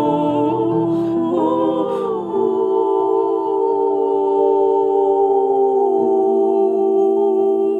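Wordless vocal humming over piano: a melodic slide about a second in, then a long held chord.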